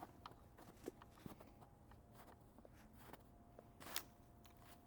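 Faint, scattered crunches and clicks of a person moving and handling things on the forest floor, with one sharper crack about four seconds in.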